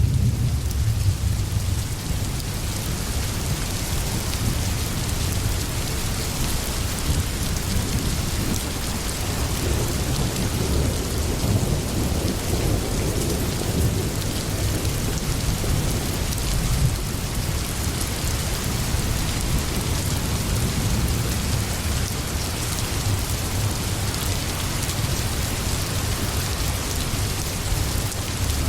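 Steady, dense rainfall with a low rumble underneath that swells at the start, around the middle and again near the end.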